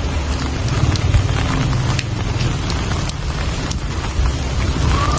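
Steady rain falling, with scattered sharp drips over a continuous low rumble.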